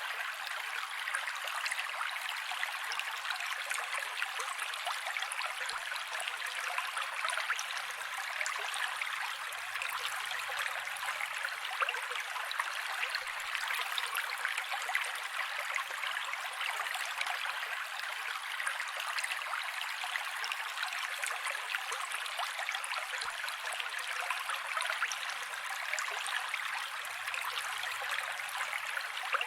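Mountain creek water running steadily over rocks, a continuous splashing and burbling rush with no pauses.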